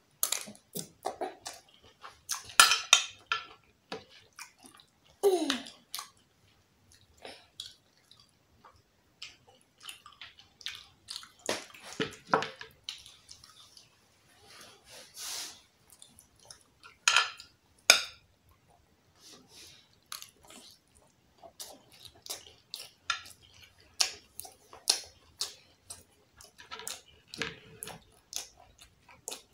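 Close-miked mouth sounds of a person chewing a mouthful of rice: irregular runs of wet clicks and smacks, with a short falling vocal sound about five seconds in.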